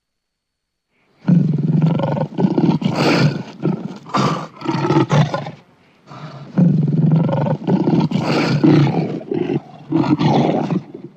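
Lion roaring in two long, rough bouts, the first starting about a second in and the second about halfway through, each broken into a run of pulses.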